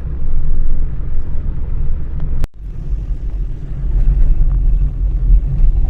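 Steady low rumble of a moving car, heard from inside the cabin. It drops out for an instant about two and a half seconds in.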